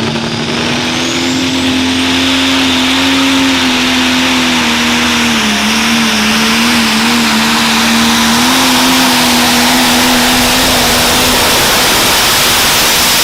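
Turbocharged diesel pro stock pulling tractor running at full throttle on a pull, a loud sustained engine note over a heavy roar. A high whine rises in the first second or two, and the engine pitch dips and wavers a few times around the middle.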